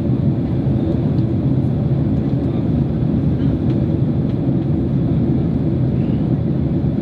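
Steady cabin rumble inside a Boeing 767-300 airliner in flight, during the descent toward landing: a constant deep roar of engine and airflow noise with no distinct events.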